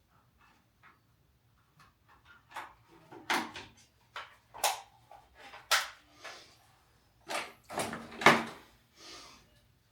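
Irregular knocks and clunks of things being handled, a few faint taps at first, then louder, closer-spaced clunks through the second half.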